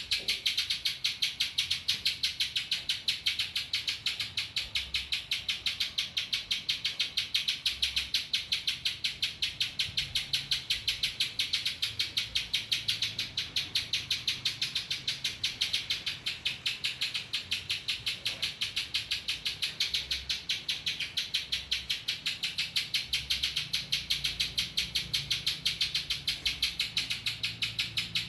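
Spiderhunter (pijantung) singing a rapid, evenly repeated series of high notes without a break, the ciblek (bar-winged prinia) song it has learned by imitation.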